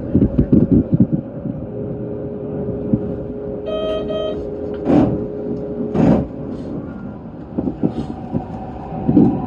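Electric commuter train standing still, heard from inside: a steady low rumble with a few knocks in the first second, a short electronic beep about four seconds in, then two short loud hisses about a second apart, and more knocks near the end.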